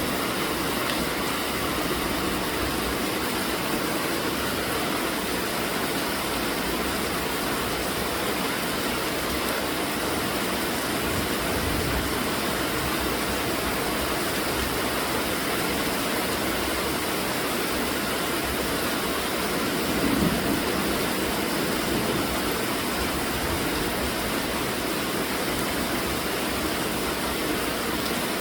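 Steady, heavy rainfall: an even, continuous hiss of rain. About two-thirds of the way through there is a brief, slightly louder low swell.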